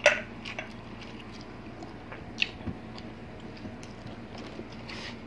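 Close-miked eating: chewing of braised pork hock and rice, with a few sharp clicks, the loudest right at the start and another about two and a half seconds in.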